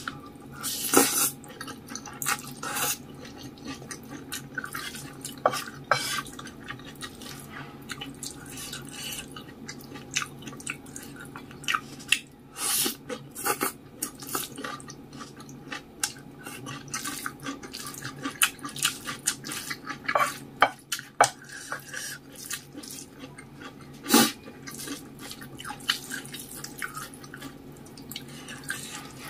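Close-miked wet eating sounds of soupy instant noodles with rice: chewing, lip smacks and slurps in a dense run of short clicks, with a few louder bursts, over a steady low hum.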